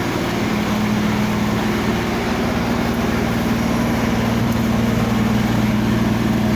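Reefer truck's refrigeration unit running steadily, a constant mechanical hum with two held low tones; its condenser fan is working again after a new carbon brush was fitted to the fan motor.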